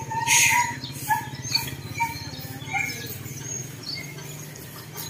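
Small birds chirping in short, scattered calls over a steady low street hum, with a short loud hiss about half a second in.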